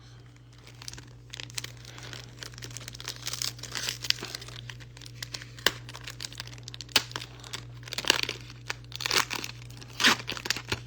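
Foil wrapper of a Japanese Pokémon card booster pack crinkling and tearing as it is opened and the cards are handled: irregular crackles and clicks, a few louder ones near the end, over a steady low electrical hum.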